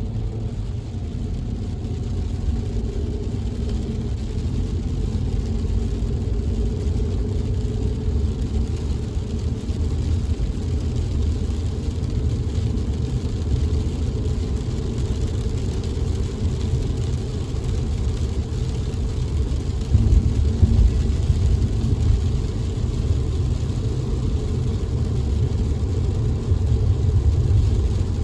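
Car driving in the rain, heard from inside the cabin: a steady low road and engine rumble with an even hiss of rain and wet tyres. There is a brief louder surge about twenty seconds in.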